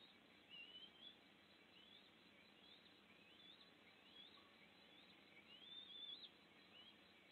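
A bird calling faintly: a steady series of short rising whistled notes, about one a second, with two longer wavering phrases, the loudest about six seconds in, over a faint outdoor hiss.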